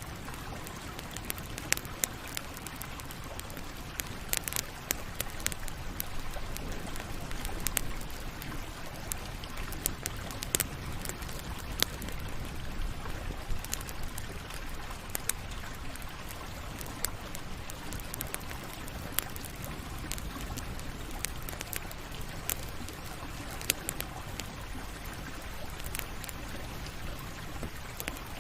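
Campfire crackling: a steady hiss of burning wood with frequent irregular sharp pops and snaps.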